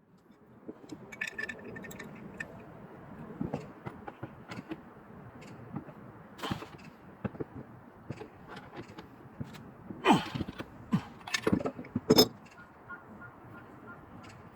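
Metal tools and plumbing fittings clinking and knocking as they are handled, over a steady hiss. The loudest knocks come about two-thirds of the way in.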